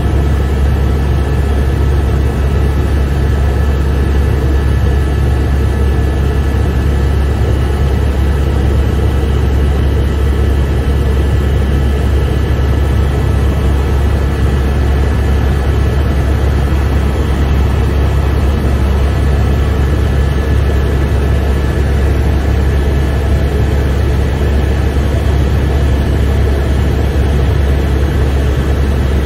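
Helicopter in steady flight, heard from inside the cabin: a loud, even low rumble of engine and rotor with a few thin, steady high whine tones above it.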